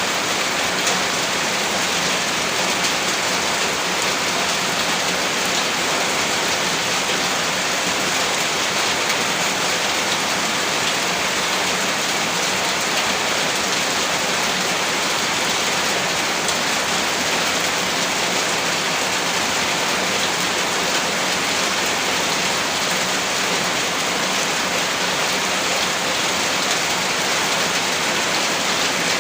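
Heavy rain falling steadily, a dense even hiss of drops with no pauses or thunder.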